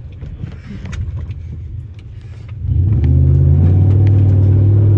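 Straight-piped Jeep Grand Cherokee exhaust rumbling low, with scattered knocks and rattles. About halfway through it opens up loud under throttle and holds steady.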